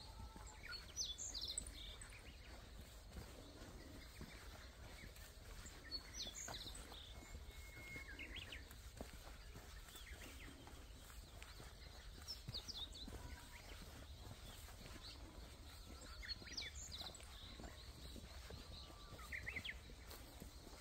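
Small birds calling in short clusters of high chirps every few seconds, faint against a steady low outdoor background.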